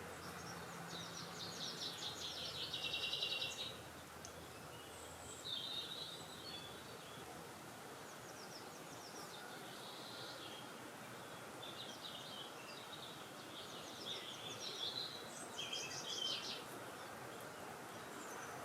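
Songbirds singing in short, separate phrases of rapid high notes, the loudest in the first few seconds and again near the end, over a steady outdoor hiss of wind.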